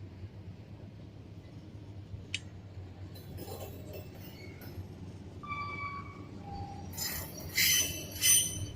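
Train on the rails under a steady low rumble, with metallic clinks, a brief squeal in the middle and two loud, high metallic screeches near the end.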